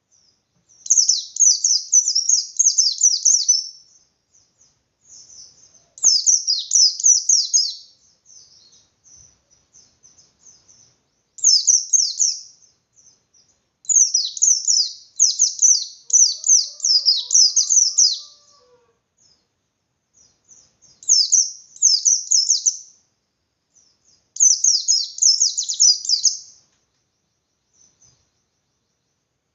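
Pleci bustomi white-eye singing its fast 'ngalas' fighting song: six high, dense volleys of rapid chirps, each lasting one to four seconds, with soft scattered chirps between them. The song is an aggressive challenge meant to make other white-eyes answer and sing harder.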